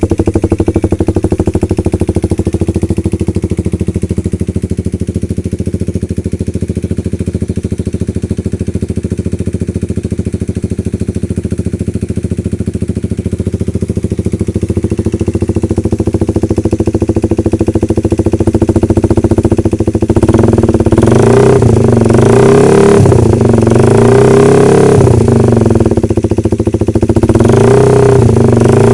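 Old Honda CB motorcycle engine idling steadily through an aftermarket imitation RCB exhaust and non-original header. About two-thirds of the way through it is revved several times, the note rising and falling.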